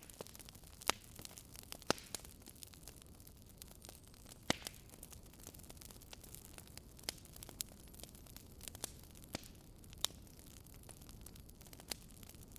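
Wood fire burning in a fireplace: irregular sharp crackles and pops over a soft steady hiss, the loudest pops about a second, two seconds, four and a half and ten seconds in.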